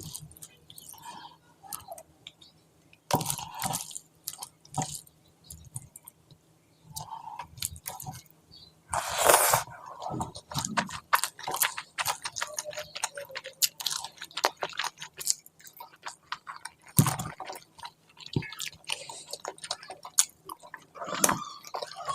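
Close-miked eating: wet chewing and squishing of curry and rice, broken by scattered sharp crunches and clicks.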